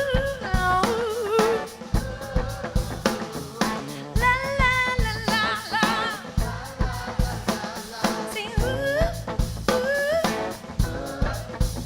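Live soul-rock band with drum kit playing while a female lead singer sings ornamented, wavering vocal runs: a call phrase for the crowd to sing back.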